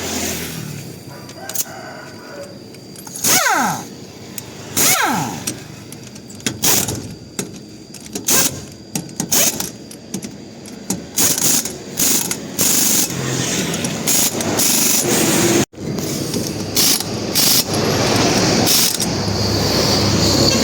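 Workshop air tools working in many short, loud bursts with brief gaps, typical of a pneumatic impact wrench on wheel nuts, with two falling whines in the first few seconds. A steadier stretch of mechanical noise runs through the last few seconds.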